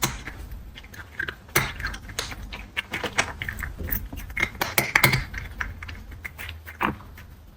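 Cat crunching dry kibble, a quick irregular run of crisp crunches and clicks.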